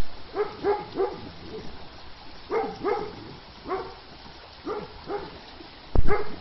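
A dog barking in short, pitched barks, mostly in pairs and threes about a second apart, with a loud thump near the end.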